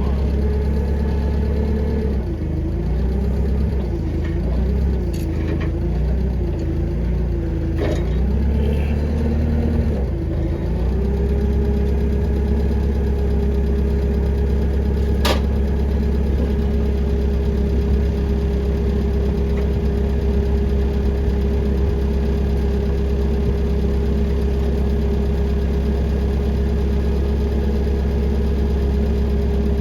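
Engine running, its speed wavering up and down for about ten seconds, then settling to a steady idle. A few sharp clicks, the clearest about fifteen seconds in.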